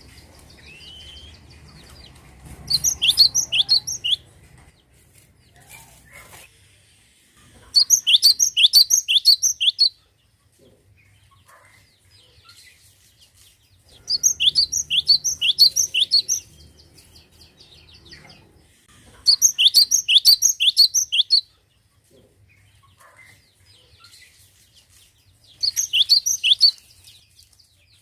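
Cinereous tit (glatik batu) singing loud, repeated phrases of quick, clear whistled notes, five phrases about five to six seconds apart, with faint softer calls between them.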